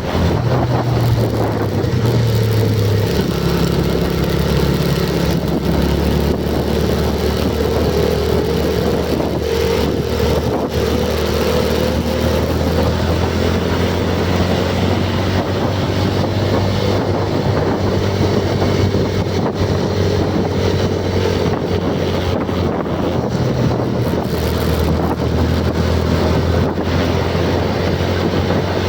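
A motor engine running steadily at an even pitch, with wind buffeting the microphone.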